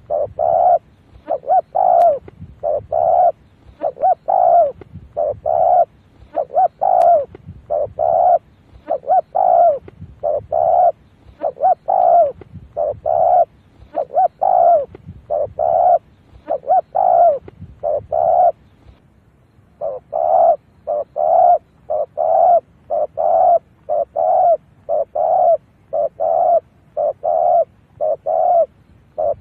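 Spotted dove cooing, a lure call of short coos repeated about two a second, with a brief pause about two-thirds of the way through.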